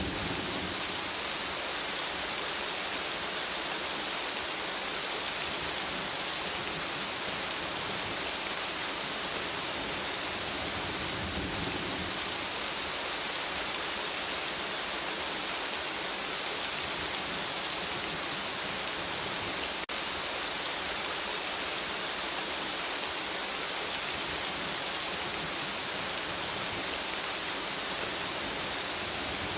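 Steady rain falling on forest leaves: an even, unbroken hiss of many drops.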